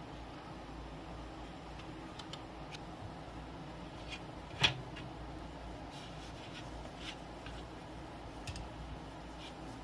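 Scattered faint clicks and taps from handling tools and film on a workbench, with one sharper click a little before halfway, over a steady low hum of room noise.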